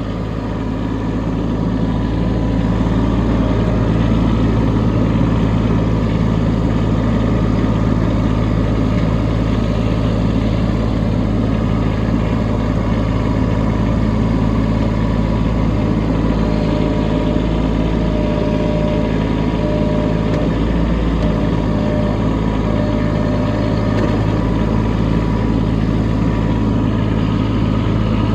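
Kubota B2601 compact tractor's three-cylinder diesel engine running steadily, growing louder over the first few seconds and then holding an even note.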